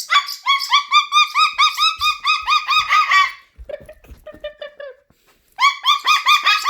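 Cockatoo giving rapid, repeated chirping calls, about four or five a second. Partway through, the calls drop lower and fall briefly quiet, then the fast series starts again near the end.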